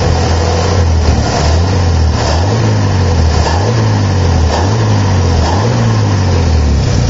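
1955 Chevrolet 235 Blue Flame inline six, fitted with an Offenhauser dual-carburettor intake and a Fenton split exhaust manifold feeding dual exhausts, revved in several short blips, its pitch rising and falling back each time.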